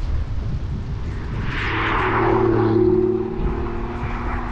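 Aston Martin DB9's V12 engine running on the move, a steady low drone, with a swell of rushing road and wind noise around the middle.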